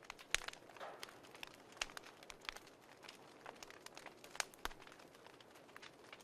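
Wood fire crackling: irregular sharp pops and snaps, several a second, over a soft steady hiss, with a few louder pops about a third of a second in, near two seconds and past four seconds.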